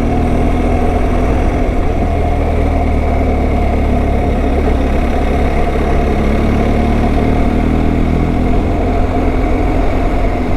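Motorcycle engine running steadily at cruising speed, with wind and road noise. There are no gear changes or revs.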